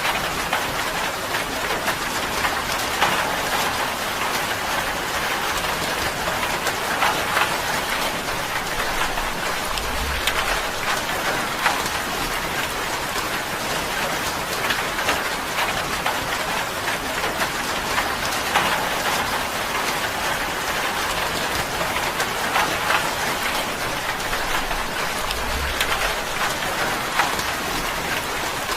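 Steady rain drumming on a tin roof, a dense patter of individual drops ticking on the metal.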